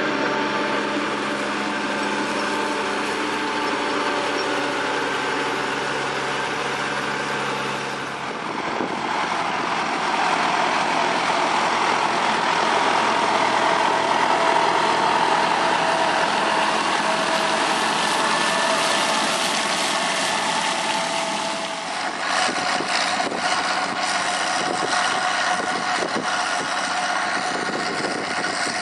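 Engine of farm machinery running steadily, its sound changing character about 8 seconds in and again about 22 seconds in.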